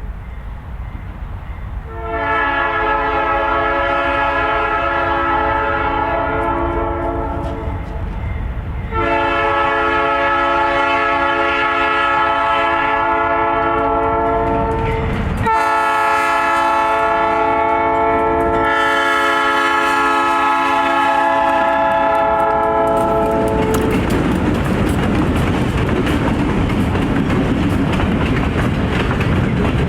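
Diesel freight locomotive horn sounding a chord in the grade-crossing pattern: two long blasts, then a short one run straight into a final long blast. The train then passes close by with a loud, steady rumble of locomotives and wheels on the rail.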